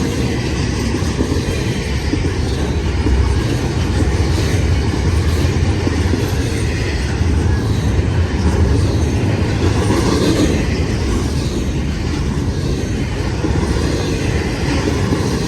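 CN freight train's cars rolling past, a steady loud rumble of steel wheels on the rails.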